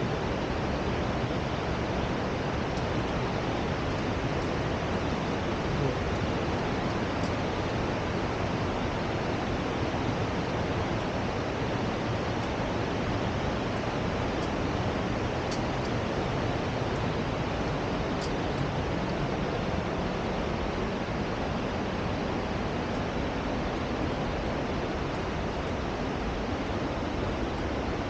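Steady rushing of fast-flowing water, an even roar that holds at one level throughout.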